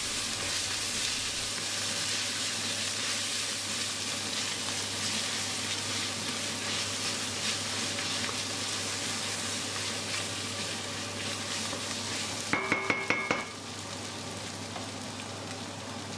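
Sliced onions and tomato paste sizzling as they fry in a stainless steel pan, stirred with a wooden spoon: a steady hiss. Near the end comes a brief run of about five quick ringing taps, and the sizzle is a little quieter afterwards.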